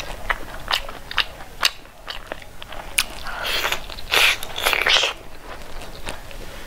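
Mouth sounds of eating pork and rice by hand: wet chewing with sharp smacking clicks, growing into a louder, denser stretch of chewing a little past the middle as a fresh handful goes into the mouth.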